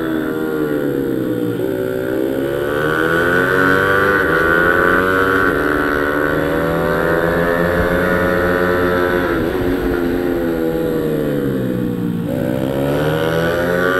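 Pit bike's small single-cylinder four-stroke engine being ridden hard around a track, its revs rising and falling with the corners. The revs drop sharply a couple of seconds before the end and then climb again.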